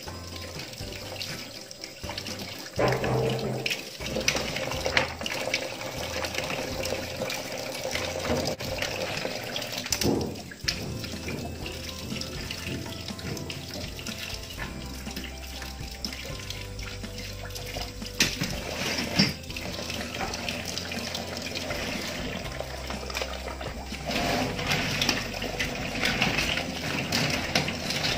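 Tap water running into a stainless steel sink as cockles are rinsed under it by hand, with a few sharp knocks along the way.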